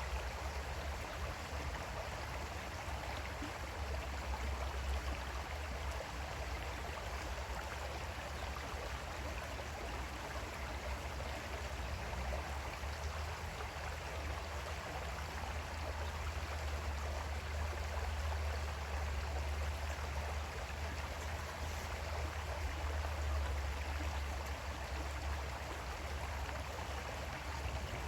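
Creek water flowing steadily, an even rushing hiss, with a steady low rumble underneath.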